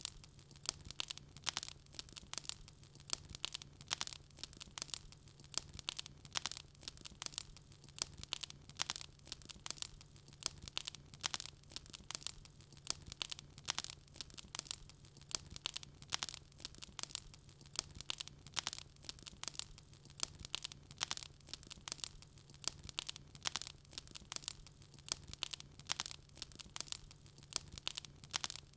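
Wood fire in a fireplace crackling: dense, irregular snaps and pops, several a second, with a faint low steady hum beneath.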